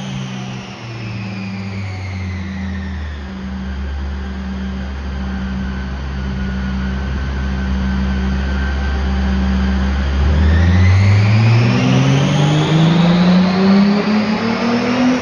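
Volkswagen Corrado race car's 2.8 VR6 engine on a dyno. The revs fall away, hold low and steady, then rise in a long pull about ten seconds in, getting louder as the pitch climbs. The engine is down on one cylinder.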